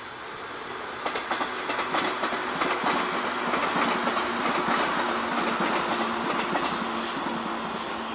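A train passing on the track, its wheels clattering over the rail joints; it swells sharply about a second in and eases off toward the end, with a low steady hum underneath.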